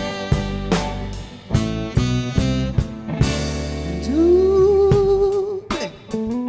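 A live band playing a song in an instrumental passage between sung lines, with regular drum hits under sustained chords. About four seconds in, a long held note with vibrato slides up and holds for under two seconds.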